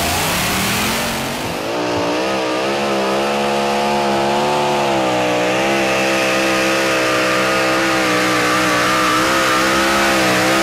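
A 2.6-ton two-wheel-drive pulling tractor's engine held near full throttle through a pull against the weight-transfer sledge. The note dips and climbs again about a second and a half in, sags briefly about halfway through, then holds high and steady.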